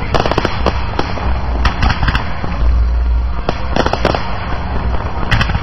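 Fireworks display: aerial shells bursting in quick clusters of sharp bangs and crackles, about five groups, over a steady low rumble.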